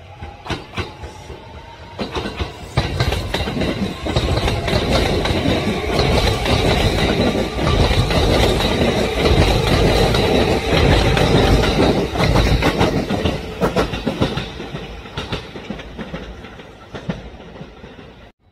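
A train passing close by: rumble and clickety-clack of steel wheels over rail joints. It builds up over the first few seconds, stays loud for about twelve seconds, then fades away.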